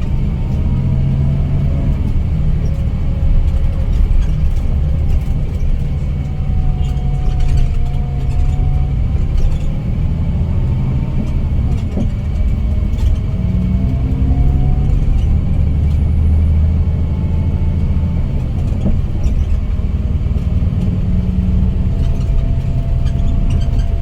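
Scania K410IB coach under way: a steady low engine and road rumble, with a faint whine that slowly rises and falls in pitch as the speed changes.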